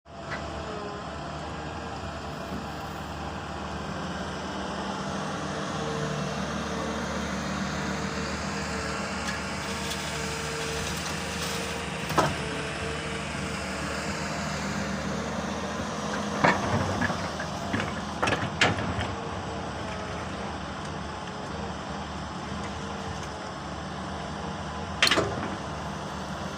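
Komatsu excavator's six-cylinder diesel engine running steadily under work, with a few sharp metallic knocks from the machine about halfway through, several more a little later, and one near the end.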